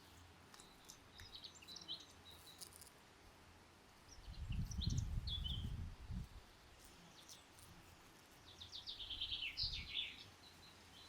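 Small songbirds chirping outdoors, with short high notes and, about nine seconds in, a quick run of falling trilled notes. Two spells of low rumble come and go under the birdsong, the first about four seconds in, and are the loudest sounds.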